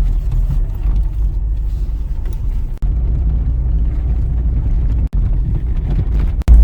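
A car driving: a steady low rumble of engine and road noise, broken off abruptly a few times.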